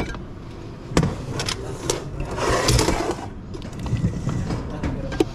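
Transmission parts being handled on a workbench: a few sharp knocks and clinks about a second apart, then a stretch of scraping and sliding of parts in the middle, followed by scattered lighter knocks.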